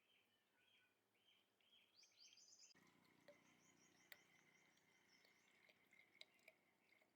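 Near silence: faint ambience of repeated chirping calls, about two a second, rising higher in pitch around two seconds in. About three seconds in, the background changes to a faint low hum with a few sharp ticks.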